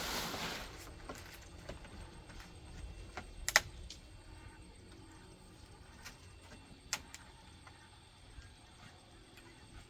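A short rustling swish, then a few sharp, isolated knocks spaced seconds apart, the loudest about three and a half seconds in and another about seven seconds in.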